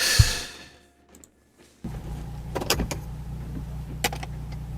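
A car's engine and road rumble as picked up by a dashcam, steady and low, starting about two seconds in, with a couple of sharp clicks. At the very start, a sudden burst of hiss fades away within a second.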